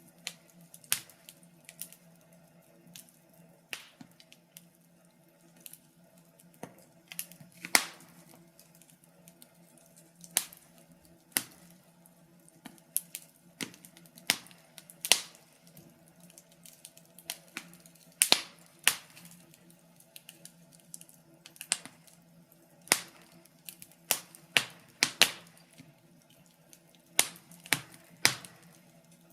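Wood fire crackling: irregular sharp pops and snaps, several clearly louder than the rest, over a faint steady low hum.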